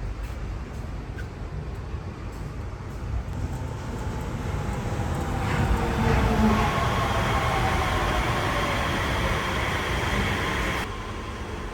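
Yurikamome automated guideway transit car running, its noise swelling with a descending electric whine. The sound cuts off suddenly near the end.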